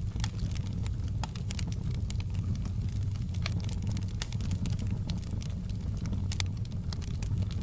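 Wood fire crackling in a fireplace: irregular sharp pops and crackles scattered over a steady low rumble.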